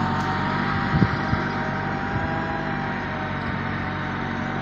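Massey Ferguson 385 tractor's diesel engine running steadily, with a couple of short knocks about a second in.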